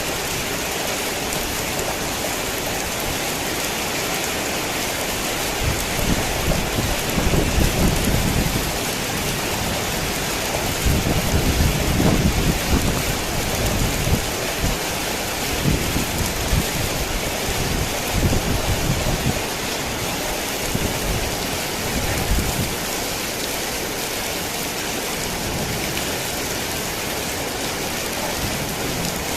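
Heavy rain falling steadily. A long roll of thunder rumbles in about six seconds in, swells twice, and dies away about seven seconds before the end.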